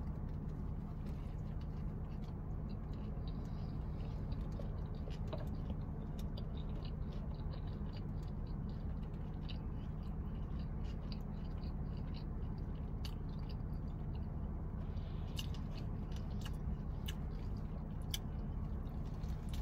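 A person chewing bites of a spicy fried chicken sandwich, with irregular small crunches and mouth clicks. A steady low hum runs underneath.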